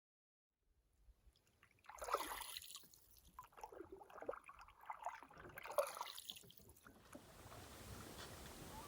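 Canoe paddle strokes in lake water, four swishing strokes about a second apart, followed by a steady faint hiss.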